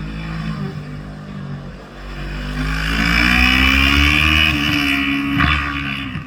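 Motorcycle engine revving higher and growing louder as it accelerates, then easing off slightly, with a brief sharp click near the end.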